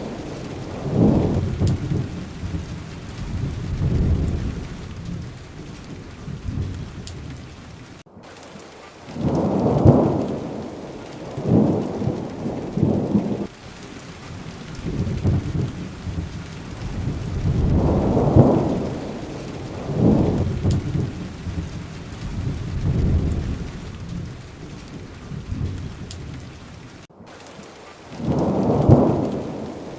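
Steady rain falling, with low rolls of thunder that swell and fade every two or three seconds. The sound cuts out very briefly twice, about eight seconds in and near the end.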